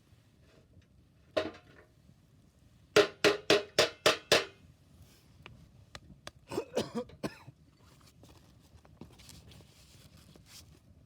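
Chainsaw chain being sharpened with a hand file: one stroke, then a quick run of six sharp rasping strokes, then a softer run of several more a few seconds later.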